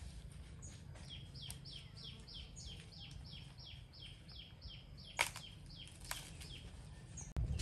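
A bird calling a quick series of short falling notes, about four a second, for a few seconds. Banana leaves being handled give a couple of sharp crackles, the loudest about five seconds in.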